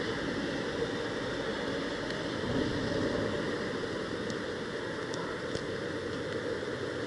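Steady hiss of rain falling, with a few faint ticks of drops striking close by in the second half.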